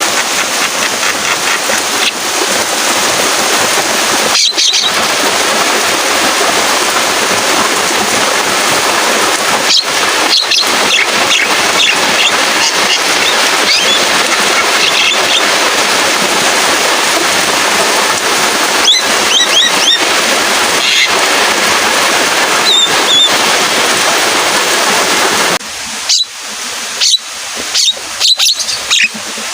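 Steady heavy rain with a Javan myna calling over it now and then in short whistles. Near the end the rain stops and the myna's sharp chattering calls stand out alone.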